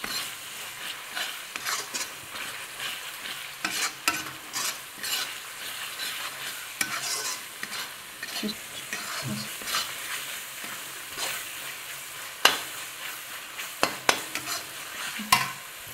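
Curry masala paste of onion, ginger-garlic and ground spices sizzling in oil in a metal kadai while a spatula stirs and scrapes it. Sharp clicks of the spatula striking the pan punctuate the steady sizzle, the loudest about twelve seconds in.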